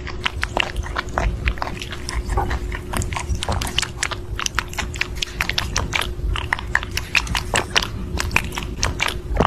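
Crunchy chewing and biting: a dense, irregular run of sharp crunches, several a second, over a faint steady hum.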